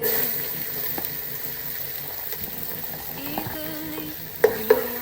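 Food sizzling steadily in a pan, with two sharp knocks of a utensil against it near the end.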